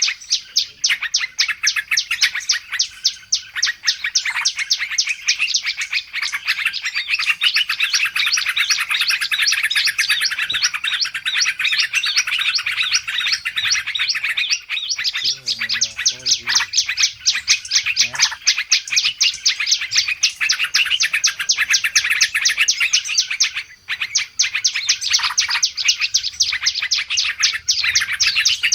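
Many small songbirds chattering at once: a dense, unbroken run of rapid high chirps. This is a bird-lure call, played to draw wild birds in.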